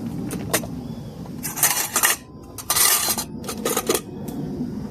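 Metal spoon clinking and scraping against a cooking pot: a couple of light clicks, then three louder spells of scraping and clattering, as the beans are stirred and checked.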